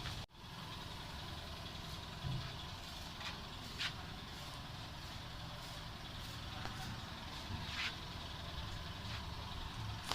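Steady low workshop background rumble with a few short light knocks, as parts are unbolted from a crash-damaged car's front end.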